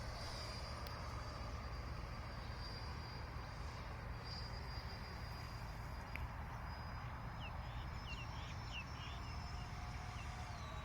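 Faint, steady high whine of a distant RC electric ducted-fan jet, over a low wind rumble on the microphone. A quick run of about six bird chirps comes around seven to nine seconds in.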